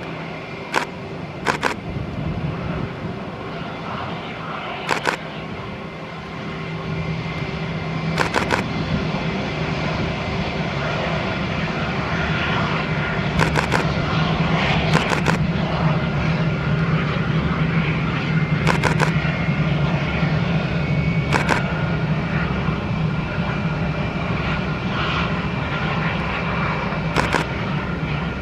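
Airbus A319 jet engines running with a steady rumble and a high whine, growing louder about six to ten seconds in and then holding. Short sharp clicks are heard now and then.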